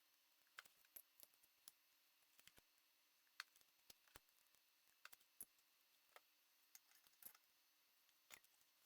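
Near silence broken by faint, irregular clicks and light ticks, about twenty of them, from small parts or tools being handled.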